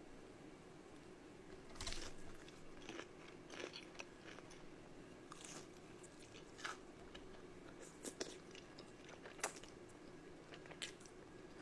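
A person eating close to the microphone: chewing, with a dozen or so scattered short crunchy bites, over a faint steady hum.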